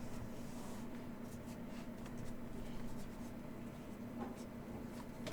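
Faint rustling and light ticks of trading card packs and cards being handled, over a low steady hum.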